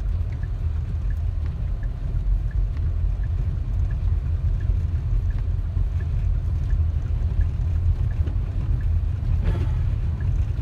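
Steady low rumble of a car's engine and tyres heard from inside the cabin while driving slowly on an icy, snow-covered highway.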